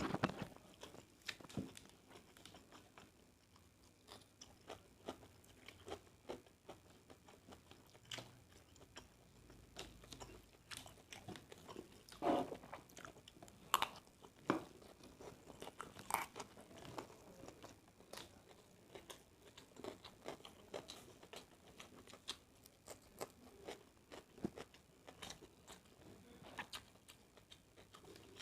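Close-up chewing of a mouthful of nasi goreng (fried rice), with scattered small wet clicks and crunches every second or so and a few louder ones midway.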